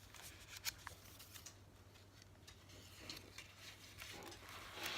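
Faint handling of a paper junk journal: a few light taps early on, then soft paper rustling and sliding that builds near the end, over a low steady hum.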